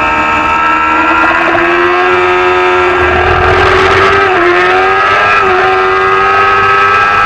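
Supersport 300-class racing motorcycle engine running hard at high revs. Its pitch holds steady, with two brief dips a little past the middle.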